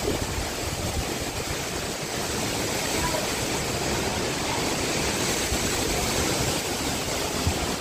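Hurricane-force wind blowing hard and steadily, a dense rushing roar with gusts buffeting the microphone.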